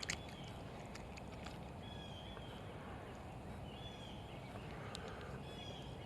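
Faint outdoor background with a bird repeating a short, slightly slurred call about every two seconds, plus a few small clicks.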